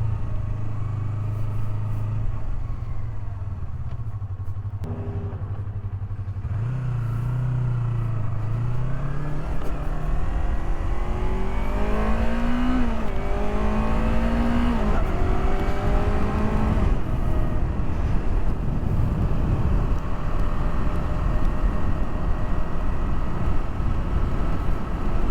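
Yamaha R3 parallel-twin motorcycle engine running steadily at low revs, then pulling away and accelerating through several upshifts, its pitch rising in each gear. After the shifts it settles into a steady cruise with rushing wind noise on the camera microphone.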